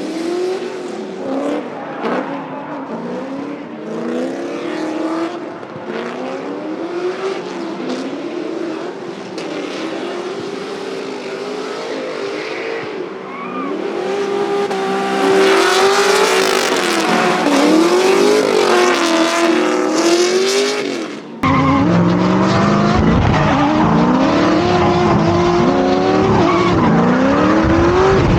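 Drift cars' engines revving up and down again and again, with tyre squeal as the cars slide, at its loudest in the second half. The sound changes abruptly about three quarters of the way through, as at a cut to another run.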